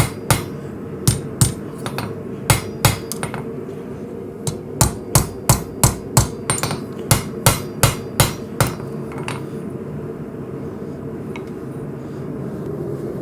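Hammer blows on hot coil-spring steel being forged into a knife blade, drawing down the point of the preform. The blows come in quick runs of a few strikes, about three a second, and stop about eight and a half seconds in. A steady hum carries on underneath.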